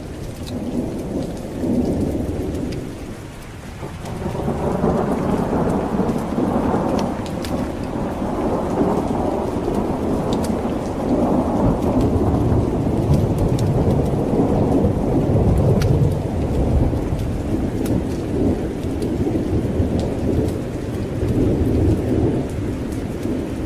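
Thunder rolling over steady heavy rain. A low rumble swells briefly near the start, eases, then builds again about four seconds in and rolls on without a break. Scattered sharp ticks sound above it.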